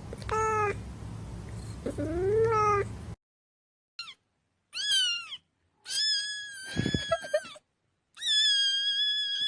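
Domestic cat meowing: two short calls over a background hiss, then, after an abrupt cut to silence, four separate meows, the last two long and drawn out.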